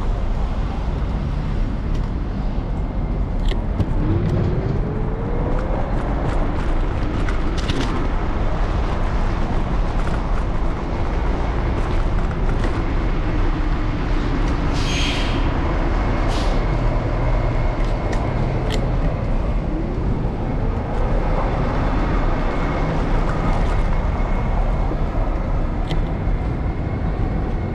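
City street traffic heard from a moving electric scooter: a steady low road rumble with vehicles passing and speeding up, and a short hiss about fifteen seconds in.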